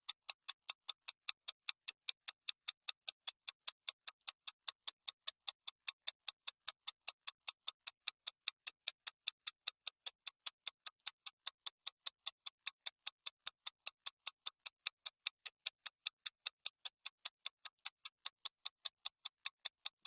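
Clock ticking at a steady, quick pace of about four sharp ticks a second: a countdown timer sound effect running while the activity is done.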